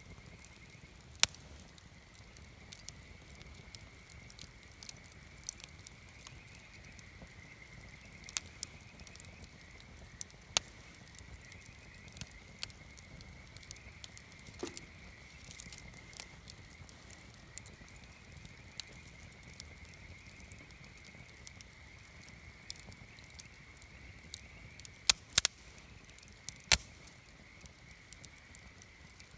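Wood campfire burning with scattered crackles and sharp pops, a few of them louder near the end. A faint steady high-pitched tone runs underneath.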